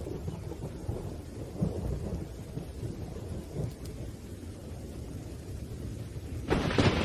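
Thunderstorm: low rolling thunder rumbles under steady rain, and about six and a half seconds in a louder, sharper crack of thunder breaks in.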